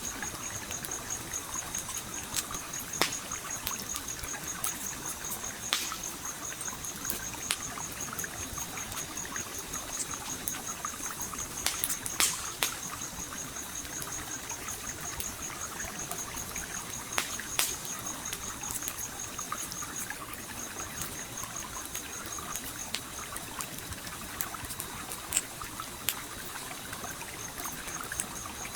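Campfire crackling with scattered sharp pops over the steady rush of a flowing stream. A high-pitched, rapidly pulsing trill runs alongside, breaking off briefly about two-thirds of the way through.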